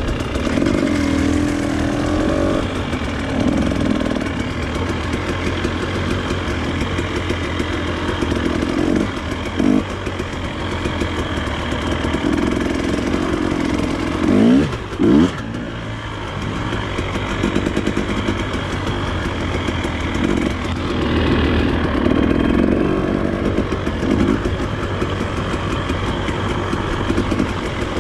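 Enduro motorcycle engine running at low revs, its note wavering, with two quick blips of the throttle about halfway through.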